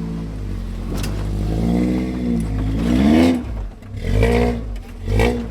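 Off-road 4x4 truck engine running, then revved: the pitch climbs for about a second from two seconds in, followed by two short throttle blips near the end.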